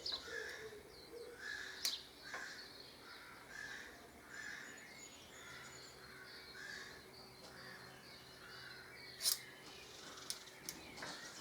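Birds calling in the background, one call repeated roughly twice a second, with a few higher chirps. A few sharp clicks sound over it, the loudest about nine seconds in.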